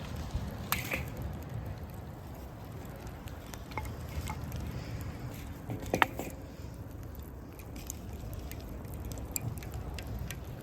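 Wood campfire crackling, with scattered small pops and one louder pop about six seconds in, over a low steady rumble.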